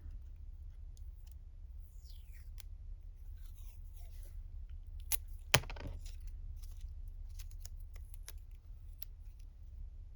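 Washi tape being picked loose and peeled off its roll, with small paper-handling clicks and rustles and a sharp snap about five and a half seconds in.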